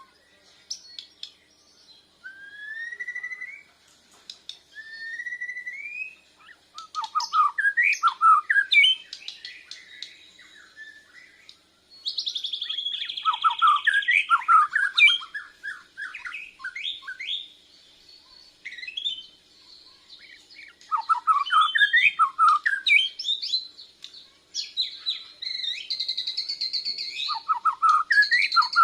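Borneo white-rumped shama (murai batu Borneo) singing: two clear rising whistles, then bursts of rapid, varied phrases with a long buzzy note, from a bird still learning its full song.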